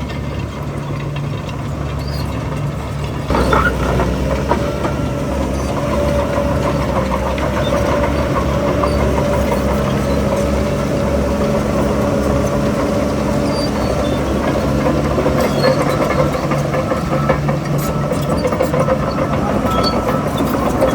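Heavy diesel earthmoving machinery working, its engine running steadily. About three seconds in the engine gets suddenly louder and stays under load, with a steady whine over the low rumble.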